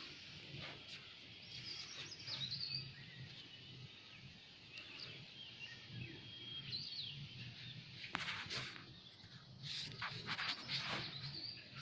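Small birds chirping faintly over a low, steady background hum. Several brief rustles from fingers handling the phone come in the last few seconds.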